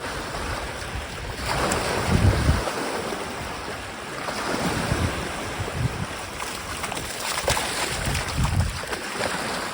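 Lake waves washing onto the shore, with wind buffeting the microphone in low rumbles.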